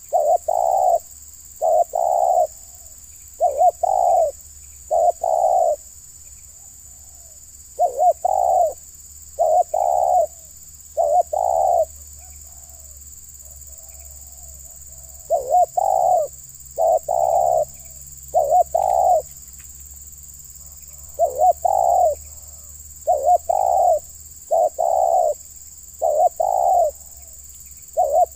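Spotted dove (terkukur) cooing repeatedly, in short phrases of a few coo notes separated by brief pauses, with a longer silent gap about midway.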